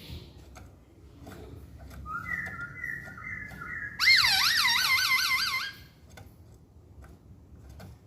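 A poksay Hongkong laughingthrush whistling its song: a few whistled notes switching between two pitches, then a louder, wavering whistle that swings up and down about five times a second for under two seconds and stops.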